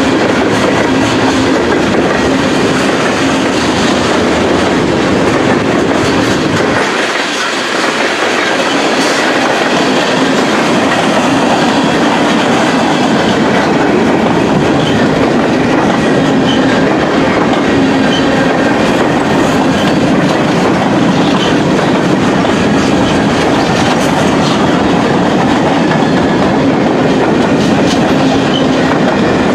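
Freight train cars rolling past, their wheels clicking over the rail joints in a loud, steady rumble that dips briefly about seven seconds in.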